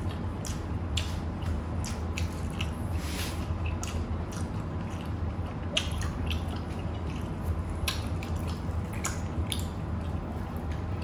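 Close-miked eating sounds: wet mouth smacks, chewing and lip clicks at irregular moments, over a steady low hum.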